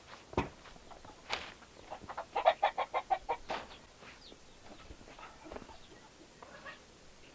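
Chickens clucking, with a quick run of about ten clucks near the middle and softer calls after it. A thud and a sharp click come just before.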